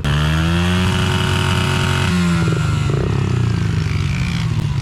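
Small four-stroke pit bike engine running hard under way, its pitch bending a little as the revs change.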